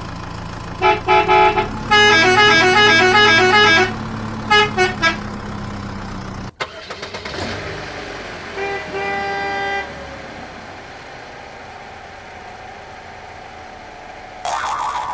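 Vehicle horn honking over a steady engine hum: a few short honks, then a fast two-tone musical horn run, then three more quick honks. The hum cuts off suddenly about six and a half seconds in. A single horn toot comes a few seconds later, and a brief honk near the end.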